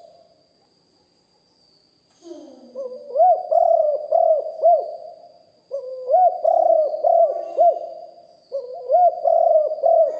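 Spotted doves cooing. After about two seconds of quiet, three cooing phrases follow one another, each a run of deep rising-and-falling coos.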